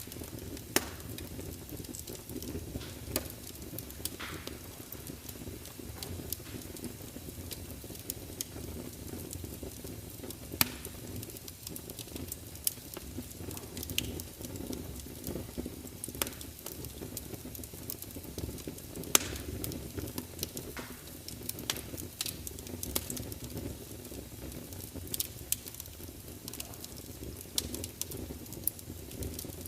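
Large open log fire burning in a fireplace: a steady low rumble with constant crackling and a few sharper pops as the logs spit.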